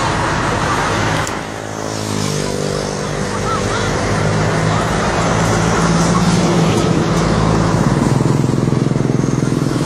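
Motorcycle engine running steadily over street traffic noise; its even engine note comes in about a second and a half in and holds.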